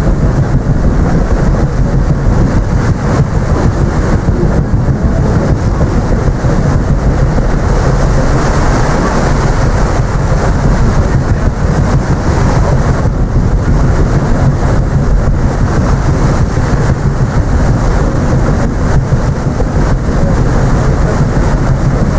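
Steady, loud wind noise on the microphone mixed with the running noise of the paddle steamer Waverley under way.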